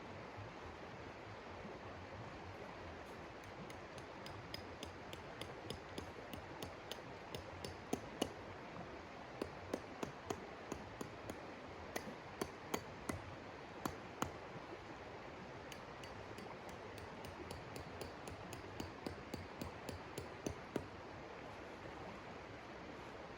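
Wood fire crackling in a stove: irregular sharp pops and snaps, several a second, over a steady hiss, thinning out near the end.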